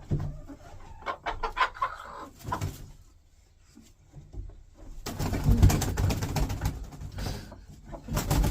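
Cochin hen making soft, low murmuring calls, followed about five seconds in by a loud burst of rustling and scrabbling lasting a couple of seconds.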